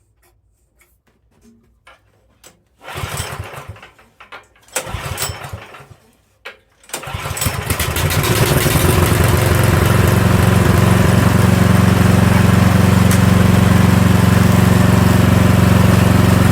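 Troy-Bilt snowblower's small engine pull-started off choke after being suspected of flooding: two pulls on the recoil starter, the engine catching on the second and settling into a steady run.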